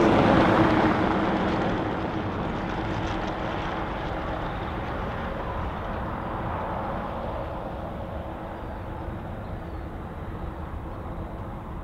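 Jet airliner's engines passing close by and then receding. The roar is loudest at the start and slowly fades away.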